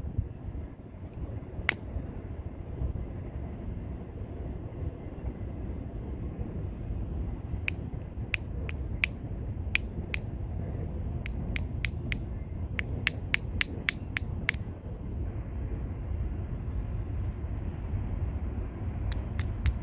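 Stone being struck with a homemade bopper in flintknapping: sharp, high clicks, one about two seconds in, then a quick run of strikes lasting several seconds, and more near the end. A steady low rumble runs underneath.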